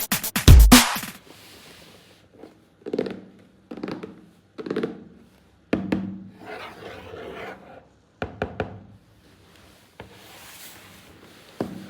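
Hands handling toys and their packaging: a few loud knocks in the first second, then scattered soft rubbing and scraping, and a quick run of three clicks about eight seconds in.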